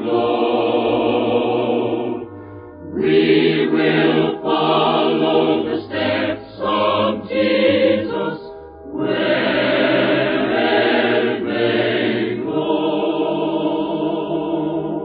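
Choir singing in phrases with short breaks between them, closing on a long held chord.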